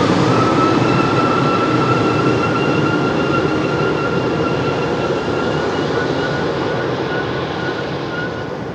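Jet engines of an Embraer E190 (General Electric CF34-10E turbofans) running, a steady fan whine over a broad roar that slowly fades as the aircraft moves away.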